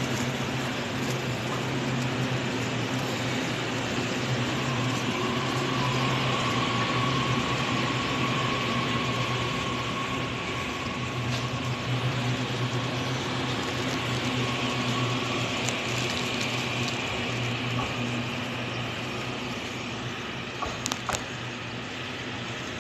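Steady low drone of railway train machinery, with a faint thin whine in the middle stretch and a few light clicks near the end.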